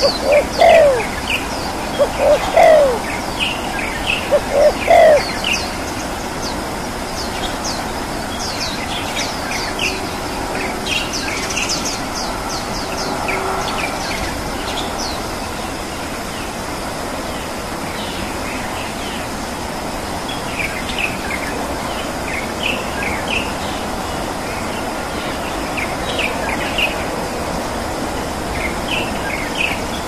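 Wild birds calling: four loud, low, downward-sliding calls in the first five seconds, with many short, high chirps scattered throughout over a steady outdoor hiss.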